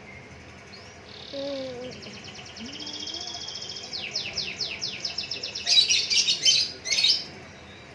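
Songbirds chirping and trilling: fast runs of high repeated notes from about a second in, getting louder and busiest near the end.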